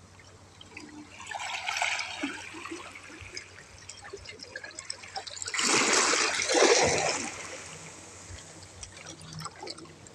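Sea waves washing up on the shore, two surges of water, the second louder.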